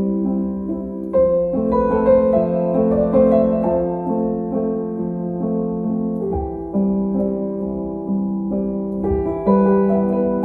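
Soft background piano music, chords changing every second or so.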